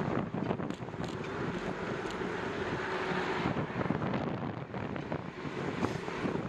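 Wind blowing across the microphone during a bicycle ride, a steady rushing noise with a faint steady hum underneath and a few brief clicks.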